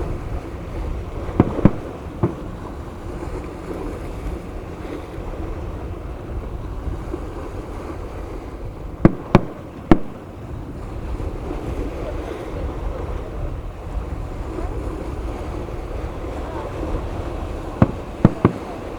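Fireworks bursting in three quick clusters of two or three sharp bangs, over steady wind noise on the microphone and the surf.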